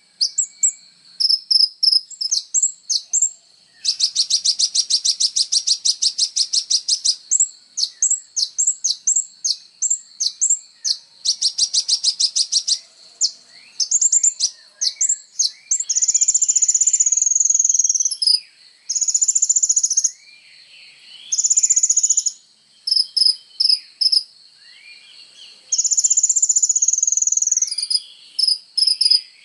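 Sunbird (kolibri ninja) singing hard: quick high-pitched chirps, two long rapid trills, then several long buzzy notes in the second half, over a steady high cricket trill.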